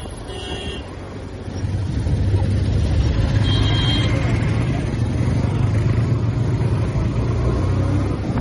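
TVS Apache RTR 180's single-cylinder four-stroke engine and exhaust under way. The engine note swells as the throttle opens about two seconds in, then holds a steady low drone.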